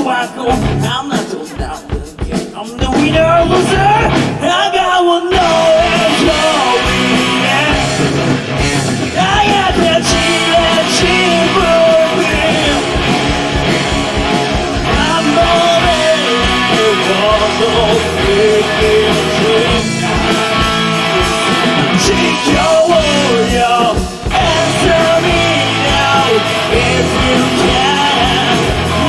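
A live rock band playing a song, with drums, bass, guitars and a wavering lead melody line. The first few seconds are a sparser, quieter passage, and the full band comes in about five seconds in and stays loud.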